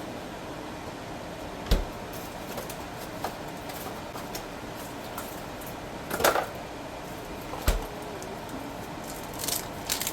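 A steady background hum with a few scattered sharp knocks and clatters, the loudest about two seconds in, around six seconds in and near eight seconds.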